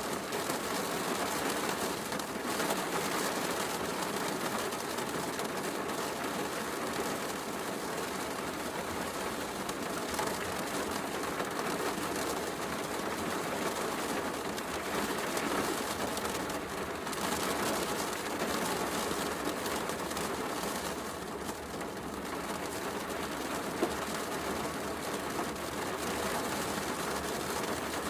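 Heavy rain falling steadily, mixed with a wood fire crackling in a fireplace, with one sharper pop near the end.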